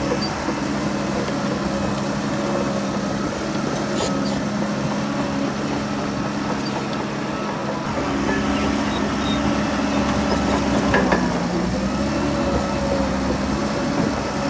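Heavy earthmoving machine's diesel engine running steadily. About halfway through it works harder, deeper and a little louder, and its pitch dips briefly near the end.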